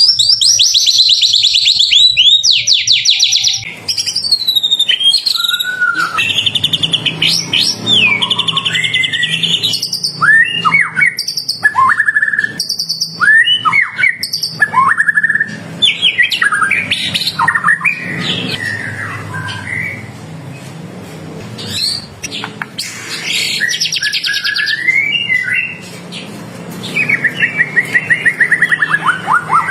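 White-rumped shama (murai batu) singing: a varied run of loud whistled slurs and short phrases, broken by fast rattling trills of rapidly repeated notes at the start, about two-thirds of the way through and near the end.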